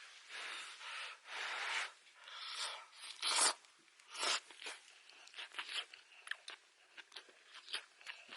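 Crunching and rustling noises: a few longer scrunches, then several sharp crunches and a run of short crisp clicks.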